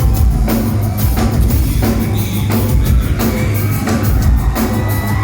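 Live metal band playing loud, a heavy drum beat striking about twice a second over thick distorted bass and guitars, heard from within the audience.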